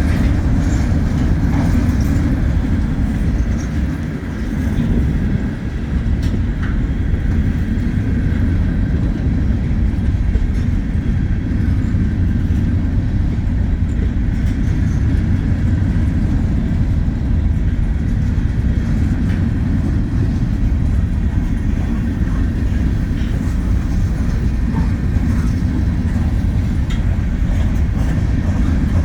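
Wheeling & Lake Erie freight train rolling past at speed: a steady heavy low rumble of freight cars on the rails, with scattered light clicks of wheels over rail joints, easing briefly about five seconds in.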